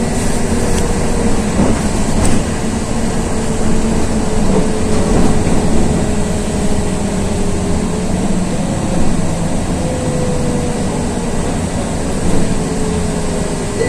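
Interior of a LiAZ 6213.22 articulated city bus under way: a steady engine drone and road rumble, with a faint whine that drifts slowly in pitch. There are a couple of light rattles in the first few seconds.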